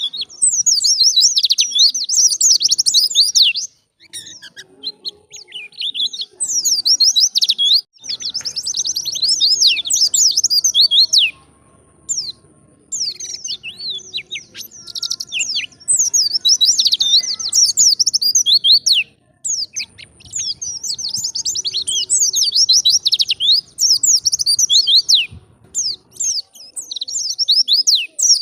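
White-eye (pleci) singing: fast, jumbled high-pitched warbling in phrases of a few seconds, with short pauses between.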